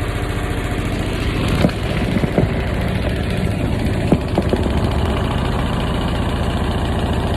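Washing machine vibrating heavily, a steady fast rattling rhythm with a few sharper knocks.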